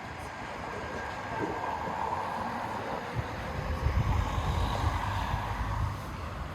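City street ambience: traffic passing, swelling and fading over a few seconds, with gusts of wind buffeting the microphone as low rumbles in the second half.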